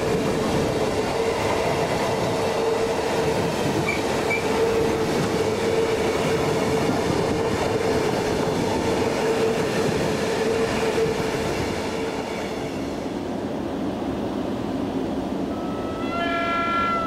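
Freight train of flat wagons loaded with rails rolling past, with steady wheel and wagon rumble and a steady whining tone over it. About thirteen seconds in this gives way to a quieter approaching train, an ET21 electric locomotive hauling tank wagons, which briefly sounds its horn near the end.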